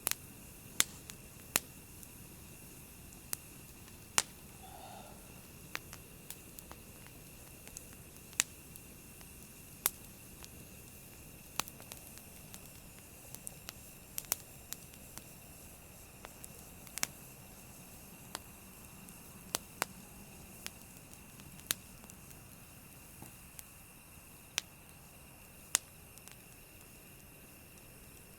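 Wood campfire crackling, sharp irregular pops about once a second over a steady low hiss.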